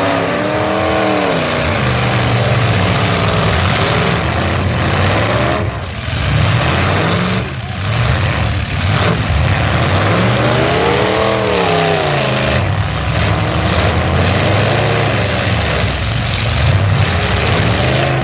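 Full-size truck engines racing, revving hard with the pitch rising and falling: one swell at the start and another about ten seconds in, over a steady loud engine din.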